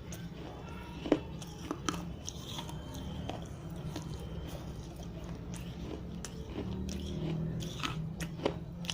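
Dry fired red clay diyas being bitten and chewed close to the microphone: scattered sharp cracks and crunches, the loudest about a second in, over a steady low hum.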